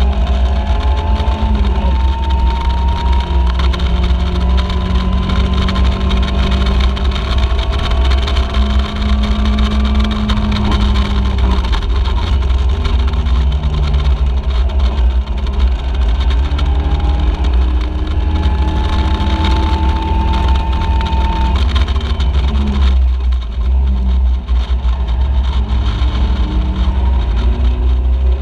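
Caterham Seven race car engine heard from its own open cockpit at racing speed, its pitch climbing slowly and then resetting as it runs through the revs. A heavy low rumble of wind and road noise runs under it. The engine note drops away briefly about 23 seconds in, as when the driver lifts off or changes gear, and then picks up again.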